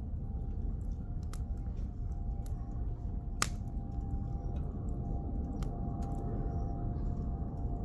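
Firewood burning in a campfire, crackling with scattered sharp pops over a low steady rush; the loudest pop comes about three and a half seconds in.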